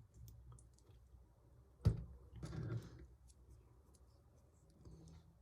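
Plastic LEGO pieces being handled and fitted together, quiet apart from one sharp click about two seconds in followed by a brief rustling clatter, with a few small ticks around them.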